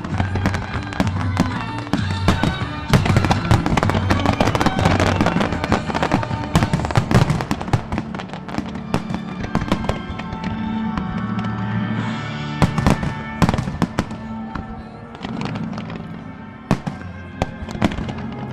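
Aerial firework shells bursting in a rapid barrage of overlapping bangs and crackles, thinning to fewer, more spaced bangs in the second half, with music playing alongside.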